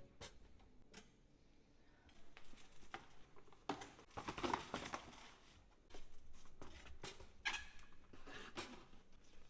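Quiet handling of kitchen items: scattered light clicks and taps, with a stretch of rustling about four to five seconds in.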